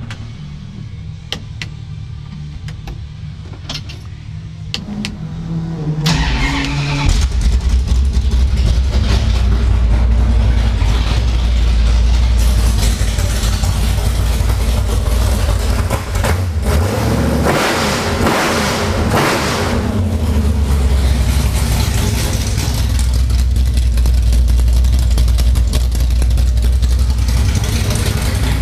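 1967 Dodge Coronet's 440 big-block V8 with a Hughes Whiplash cam starting about six seconds in, then running loud. It is revved briefly from about 17 to 20 seconds in, then settles back to idle.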